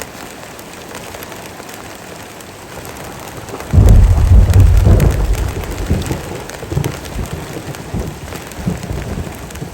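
Heavy rain falling steadily. About four seconds in, a sudden loud crack of thunder breaks into a deep rumble that rolls on and slowly fades over the next several seconds.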